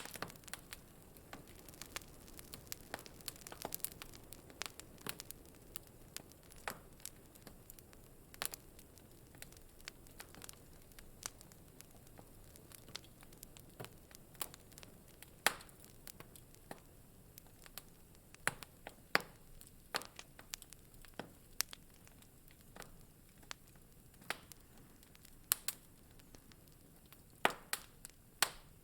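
Wood fire burning in a fireplace: irregular sharp pops and snaps over a soft steady hiss, with a few louder pops about halfway and near the end.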